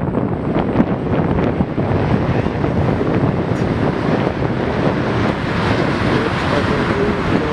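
A jet airliner's engine noise, a steady rush that grows brighter and fuller from about two seconds in, with wind buffeting the microphone.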